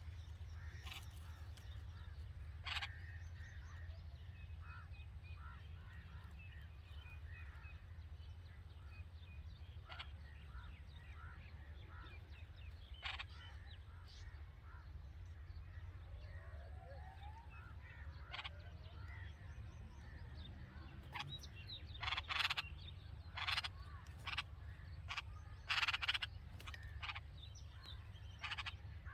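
Red-vented bulbuls chirping at the nest: a long run of short, soft chirps over a steady low hum. In the last third a cluster of louder, harsher bursts cuts in.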